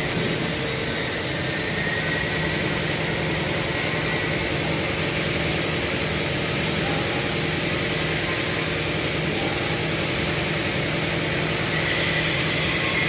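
Industrial wire-hardening furnace line running: a steady mechanical rush with a low hum and a faint high whistle, growing a little louder near the end.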